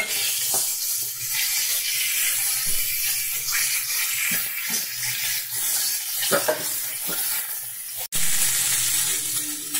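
Potatoes and cauliflower florets sizzling steadily in hot mustard oil in a kadai, with a few scattered scrapes and knocks of a metal spatula against the pan. The sound drops out for an instant about eight seconds in.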